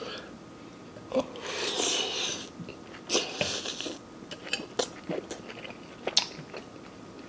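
A person eating a mouthful of spicy noodles: wet chewing and lip-smacking clicks, with two long hissing breaths out against the chili heat, about a second in and again around three seconds in.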